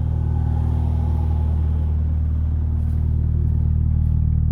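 Vehicle engine idling steadily while it warms up after a cold start, a steady low drone.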